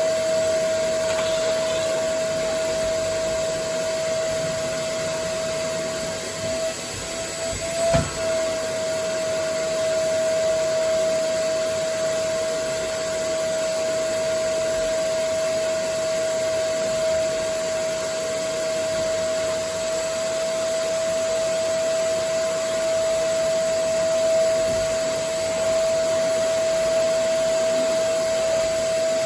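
Vacuum cleaner running steadily, a constant whining hum. About eight seconds in the sound wavers briefly and there is one sharp knock.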